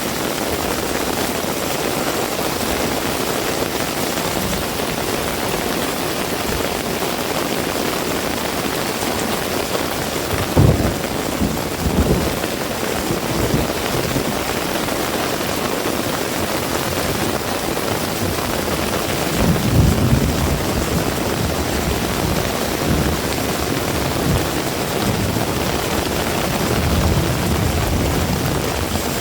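Heavy rain falling steadily, a dense even hiss, with a few brief low rumbles about 11, 12 and 20 seconds in.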